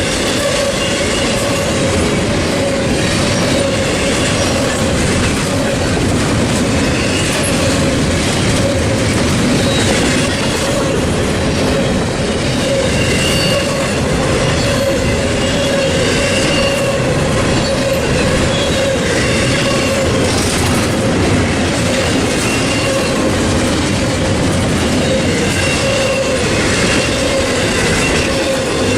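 Freight train cars rolling steadily past on the rails, wheels clacking over the track with a steady metallic ring and now and then a higher wheel squeal.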